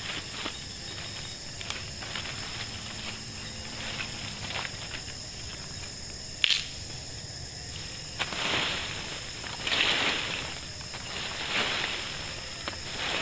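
Night insects keeping up a steady high-pitched drone, with scattered small clicks, one sharp snap about six and a half seconds in, and several brief rustling swells in the second half.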